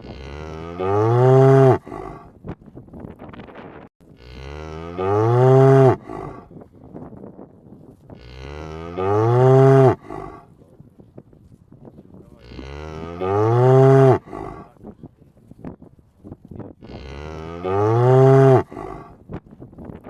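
Cow mooing: five loud moos at a steady spacing of about four seconds, each about two seconds long, rising then arching in pitch and loudest toward its end.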